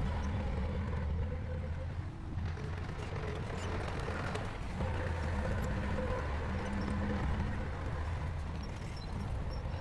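Heavy diesel engine of earthmoving equipment running steadily under load, easing briefly about two seconds in, with faint metallic clinks over it.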